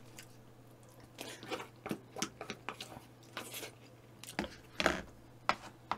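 Close-miked chewing of food: irregular soft clicks and small crunches from the mouth, scattered and uneven, with a couple of sharper ones near the end.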